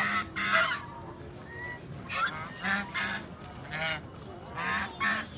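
Domestic waterfowl calling in a series of short calls, about eight in a few seconds, as they crowd in to be fed bread.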